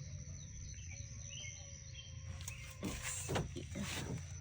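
Outdoor ambience with a low, steady rumble of wind on the microphone and faint bird chirps. A few short rustles, like steps or handling, come about three to four seconds in.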